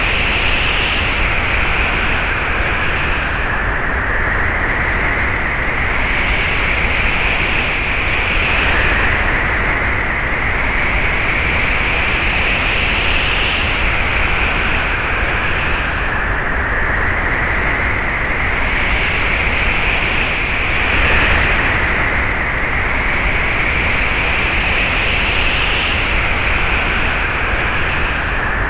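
Wind sound effect: a steady rushing of wind whose higher, hissing edge swells and eases in gusts every few seconds.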